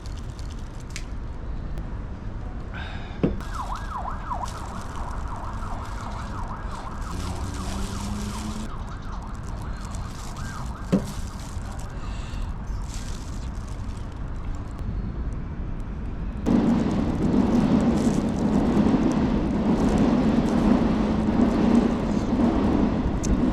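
Traffic-like rumble with a wavering, siren-like high tone for about five seconds starting three seconds in, and two brief knocks. From about two-thirds of the way in, a louder, steady engine-like drone sets in suddenly.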